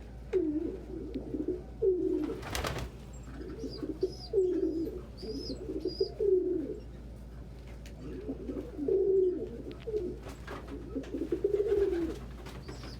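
Domestic pigeons cooing repeatedly in a loft, low rolling coos one after another, with faint high peeps in the middle and a short burst of noise about two and a half seconds in.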